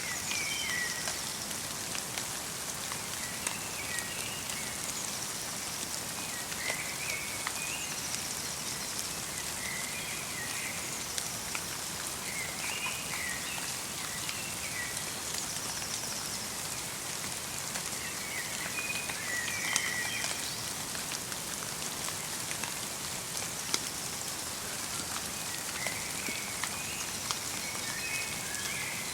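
Light rain mixed with snow falling on a forest, a steady patter of many small drops ticking. Small birds call in short twittering phrases every few seconds over it.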